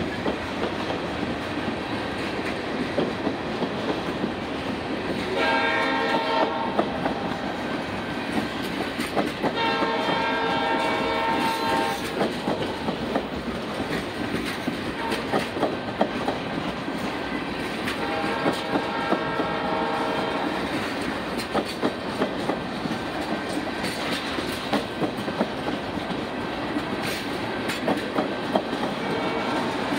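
Freight train of tank cars and covered hoppers rolling past, a steady rumble with wheels clicking over rail joints. A locomotive horn sounds three times: a short blast about six seconds in, then two longer blasts around ten and eighteen seconds in.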